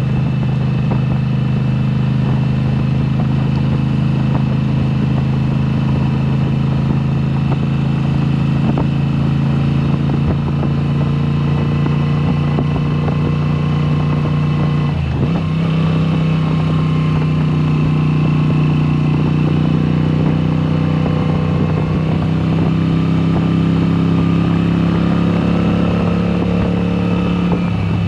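Moto Guzzi V7 Special's air-cooled transverse V-twin running through a Mistral exhaust with the dB killers removed. The engine note holds steady, breaks sharply about halfway through, then climbs slowly and falls away near the end.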